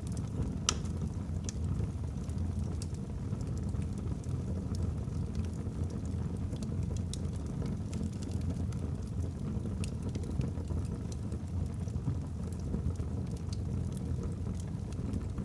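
Wood logs burning in a fireplace: a steady low rush of flames with scattered sharp crackles and pops, the loudest snap near the start.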